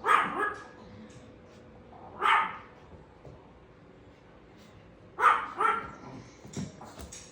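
Pet dog barking: short single barks at the start and about two seconds in, then two barks in quick succession about five seconds in.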